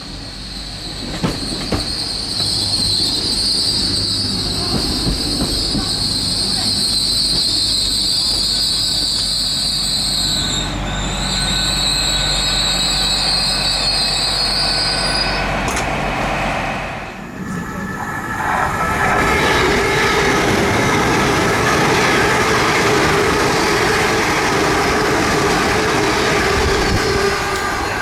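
Train running through the station with a steady high-pitched wheel squeal for about the first fifteen seconds. After a brief lull around seventeen seconds, a louder passing-train rumble with several steady humming tones follows.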